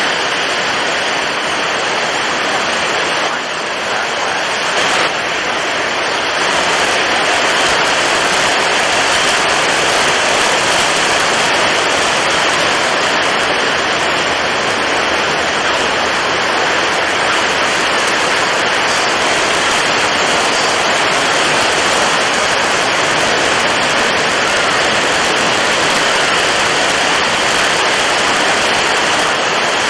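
Storm at sea: wind blowing hard over breaking waves, a dense steady rush of noise that swells slightly a few seconds in.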